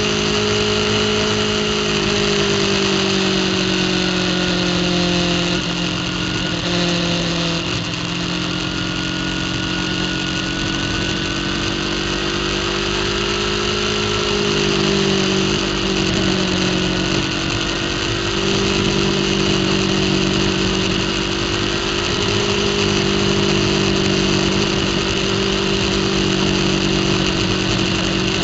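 Racing superbike's engine running hard at high revs, heard from the bike itself, its pitch stepping down and climbing again several times as the rider works through the gears.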